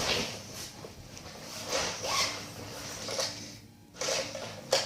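Irregular rustling and scraping handling sounds: someone rummaging to fetch a pair of scissors.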